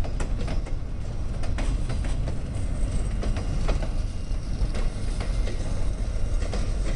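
Train of rail cars, MBTA passenger coaches among them, rolling past: a steady low rumble with irregular clicking of wheels over rail joints.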